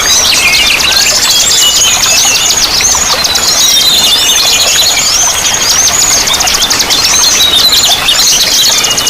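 Many small songbirds singing at once: a dense, continuous chorus of rapid high-pitched trills and chirps, over a soft hiss of running water.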